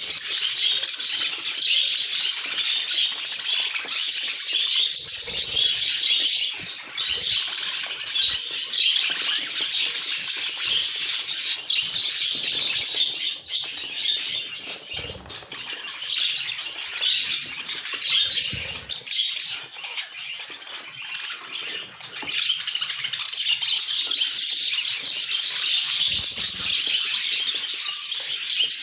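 A flock of budgerigars chattering and chirping continuously, thinning out somewhat in the middle before picking up again, with a few soft low thumps.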